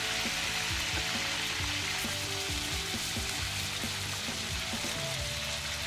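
Confited pork ribs frying in hot oil in a frying pan, a steady sizzle: the final high-heat fry that crisps the outside. Soft background music plays underneath.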